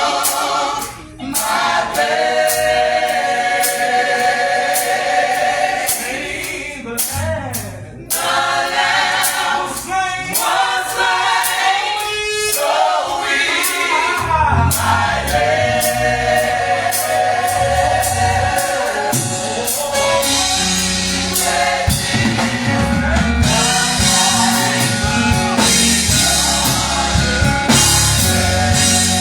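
Gospel choir singing, voices alone at first, with bass and drums coming in about halfway through.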